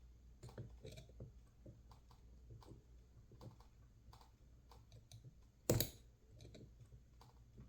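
Small metal tools clicking and scraping against a lock's metal housing while prying under its top cover, with one sharper, louder metallic clack about three quarters of the way through.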